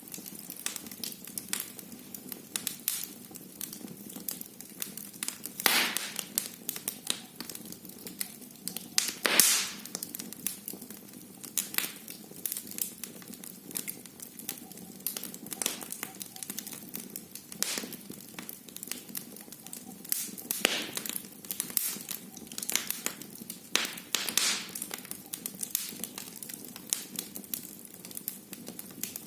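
Wood fire burning in a fireplace, crackling steadily over a low hiss, with sharper pops now and then, the loudest about six and nine and a half seconds in.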